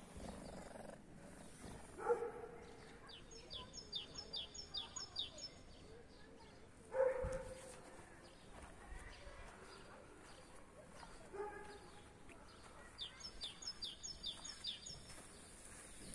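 A songbird singing twice, each time a quick run of about eight high notes that each slide downward, about ten seconds apart. Between them come two short, louder calls with a clear, steady pitch, about two and seven seconds in.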